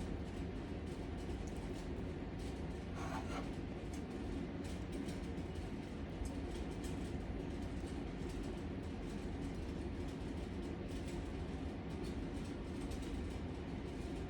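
A steady low rumble, even in level throughout, with faint scattered clicks and a brief higher scrape about three seconds in.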